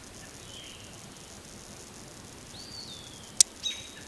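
A few thin, high bird calls over a faint steady outdoor background: a short whistle near the start and a falling, curved call about two and a half seconds in. A single sharp click about three and a half seconds in is the loudest sound.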